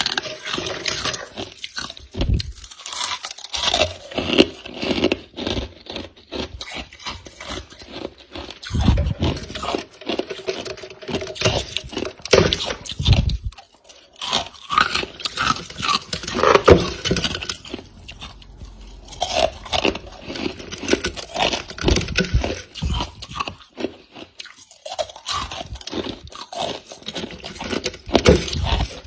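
Close-miked chewing of freezer frost: irregular crunching and squeaking bites of packed ice crystals, with a few short pauses.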